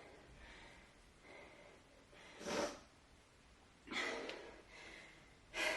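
A woman breathing hard between sets. There are three loud, rushing breaths about a second and a half apart, with fainter breaths between them. She is winded after a round of kettlebell thrusters.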